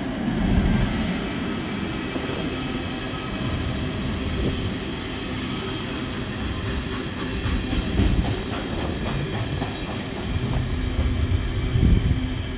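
GB Railfreight Class 66 diesel locomotive 66714 hauling a freight train past, its two-stroke diesel running steadily under the rumble and clatter of the wagons on the rails.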